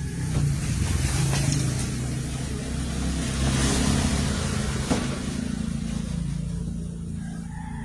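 A motor running with a steady low hum that swells and eases in level, with a couple of light clicks.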